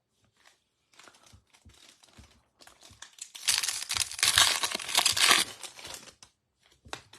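Baseball card pack's wrapper being torn open and crinkled by hand: scattered crinkles, then a loud, dense stretch of tearing and crinkling for about two seconds in the middle that tapers off into a few more crackles.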